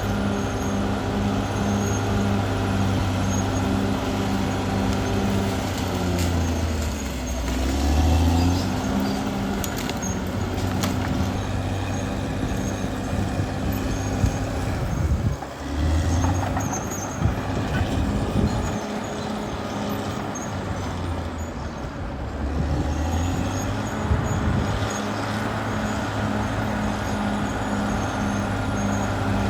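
Caterpillar D6R XL bulldozer's diesel engine running steadily under load, its pitch sagging twice as it lugs, about a quarter and about half of the way through. A few sharp clanks come shortly after the first sag.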